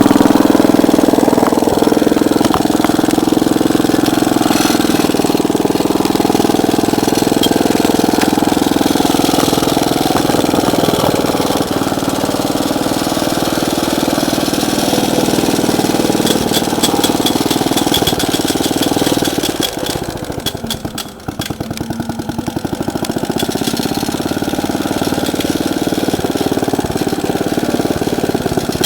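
Small single-cylinder Clinton 1.5 hp engine of a walk-behind tractor running steadily. About two-thirds of the way through, its speed and loudness sag sharply, then it picks back up. The owner believes the engine has carburettor problems.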